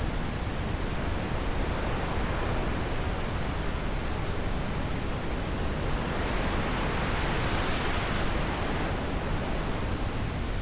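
Wind blowing steadily, a rushing noise with a gust that swells in the upper range from about six seconds in and eases off a few seconds later.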